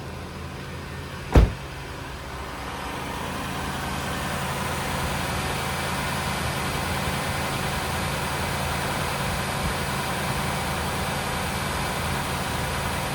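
2003 Lexus LS 430's 4.3-litre V8 idling steadily and smoothly shortly after a cold start. A car door shuts with a thump about a second and a half in, and the engine grows louder over the next couple of seconds, then holds steady.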